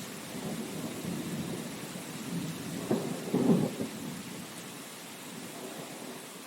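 Steady rain hiss with a low rumble underneath that swells to its loudest a little after three seconds in, then dies away.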